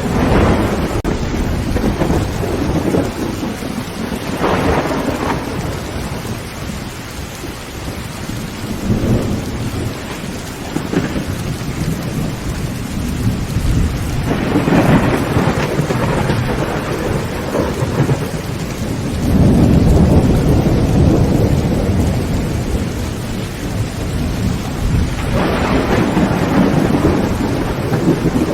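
Heavy rain drumming steadily on a tin tent roof, with about six rolls of thunder rumbling through it; the longest and loudest comes about two-thirds of the way in.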